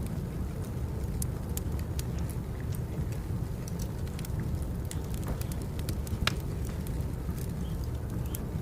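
Wood fire burning: a steady low rumble of the flames with irregular sharp crackles and pops from the firewood, one pop louder than the rest about six seconds in.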